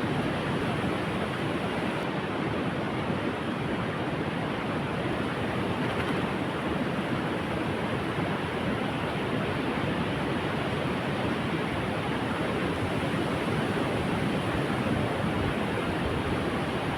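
Steady, unbroken noise of sea surf and wind.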